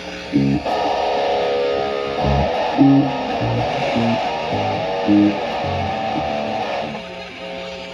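Electric guitar played loosely through an amp, with held, wavering notes over a series of short low plucked notes. Someone is testing the rig after it cut out.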